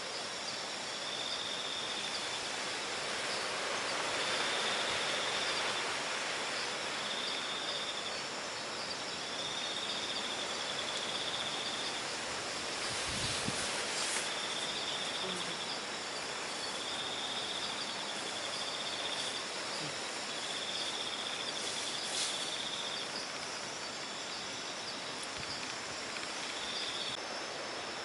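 Night insects trilling in repeated high-pitched bursts about a second long, over a steady rush of wind noise. A single soft knock sounds about halfway through.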